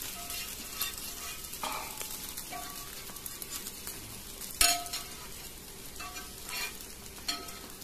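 Egg-stuffed parotta shallow-frying in oil on a tawa: a steady sizzle, broken by a few short clinks or scrapes of a utensil against the pan, the loudest about four and a half seconds in.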